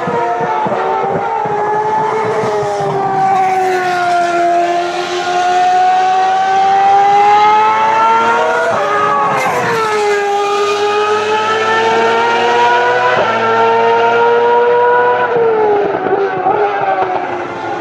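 Ferrari racing car engines at high revs on track, the engine note climbing and falling repeatedly, with a sharp drop in pitch about nine seconds in.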